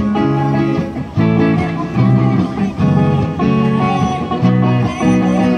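Guitar strummed in a steady rhythm with changing chords, accompanying a live song performance.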